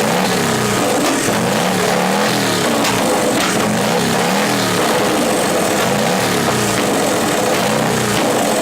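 An engine revved up and down over and over, its pitch rising and falling about once a second.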